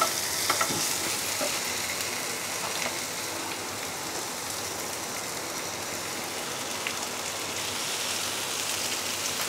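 Spiced onion-tomato masala sizzling steadily in oil in a non-stick frying pan, with a few short scrapes of a wooden spatula in the first second.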